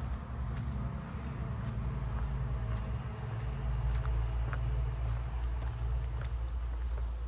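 A small bird repeating a short, very high, falling call about twice a second, over a steady low rumble.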